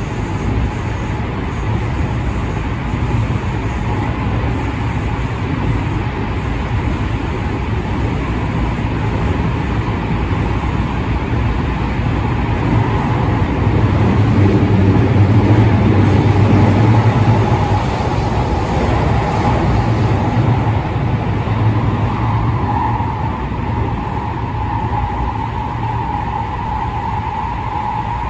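Running noise inside a JR West 207 series commuter train car with a Toshiba IGBT inverter drive: a steady rumble from the running gear with a high whine over it. The noise swells for a few seconds midway.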